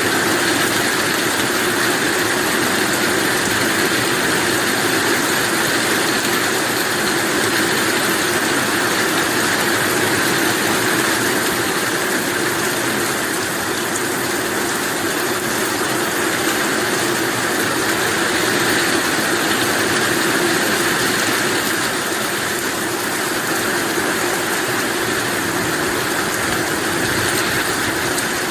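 Heavy rain falling steadily, an even, unbroken hiss with no thunder or other sudden sounds.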